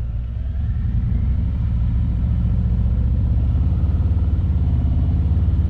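Motor vehicle engine running with a low, steady rumble that grows slowly louder.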